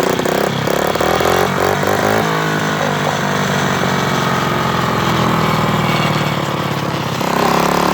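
Motorcycle engine running, its pitch shifting about two seconds in, then revving louder and higher near the end.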